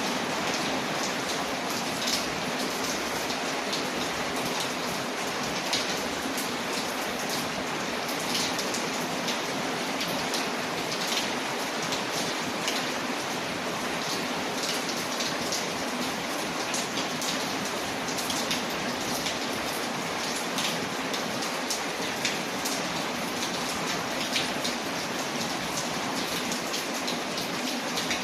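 Steady rain on a window, mixed with a crackling wood fire: an even hiss of rain with many small, sharp pops and ticks scattered through it.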